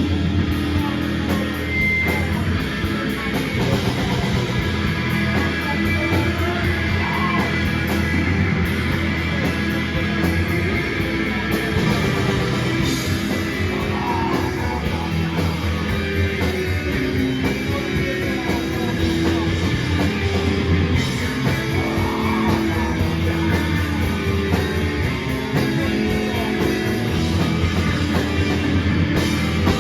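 Rock band playing live, loud and continuous, with distorted electric guitars and drums.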